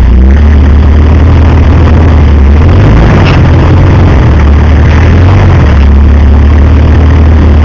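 A 4WD's engine running at low revs as it crawls over creek rocks, loud and close; the engine note rises about three seconds in and drops back near six seconds.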